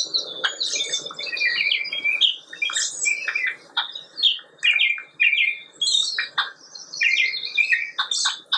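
Birds chirping: a busy run of short, high chirps and calls in quick phrases, with brief pauses between them.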